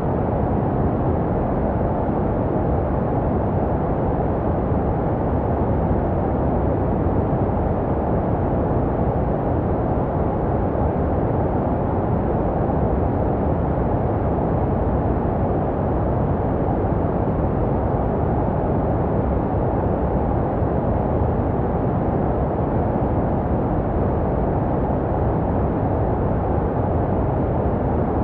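Steady white noise for infant sleep: an even, unbroken rushing hiss with most of its weight low and little treble, made to resemble the sound a baby hears in the womb.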